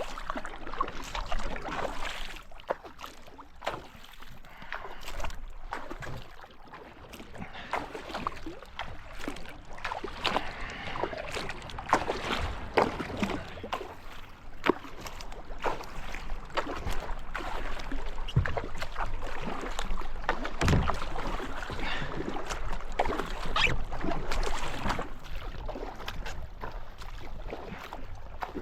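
Kayak paddle strokes splashing in the water, with scattered sharp knocks.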